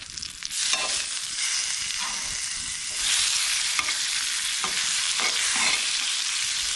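Fish fillets sizzling in a cast-iron skillet, with a few clicks and scrapes of metal tongs against the pan as the fillets are turned. The sizzle gets louder about three seconds in, once the fillets are flipped.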